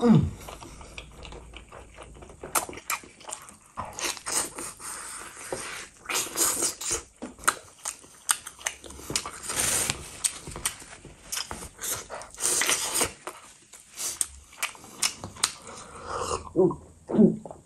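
Close-miked eating sounds: wet chewing, lip smacks and bites of cooked mutton leg with rice. Near the end come a few gulps of water.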